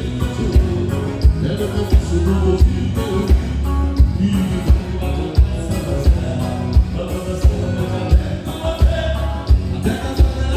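Live gaúcho dance band playing, with a steady bass drum beat under the band.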